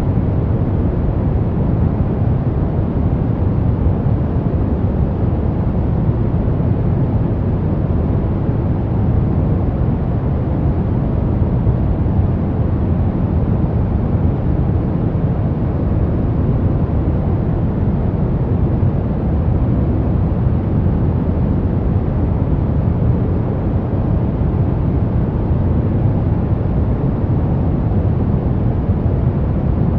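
Pink noise: a steady, even hiss, heaviest in the low end, with no change or break.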